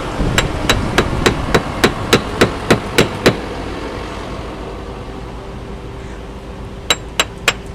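A caulking iron struck in quick, even blows, about three and a half a second, driving caulking cotton into a wooden boat's plank seam. Eleven blows are followed by a pause and then three more near the end.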